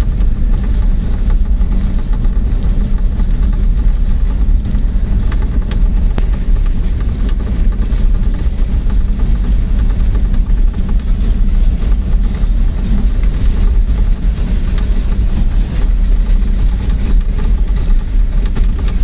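A motor vehicle travelling along a road: a steady, loud low rumble of engine and road noise.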